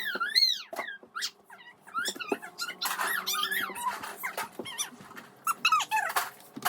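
A pet dog whining in repeated high, wavering squeals, with scattered sharp clicks between them.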